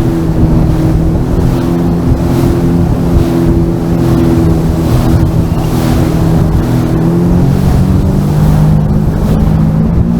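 Sea-Doo Fish Pro personal watercraft engine running at a steady cruising speed, its pitch lifting slightly near the end, with heavy wind rumble on the microphone.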